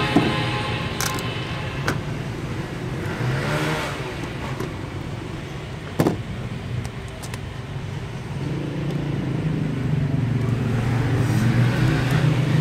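A motor vehicle's engine running, its low drone growing stronger in the second half, with traffic noise. Sharp clicks of a plastic switchboard box and socket plate being handled cut in a few times, the loudest about six seconds in.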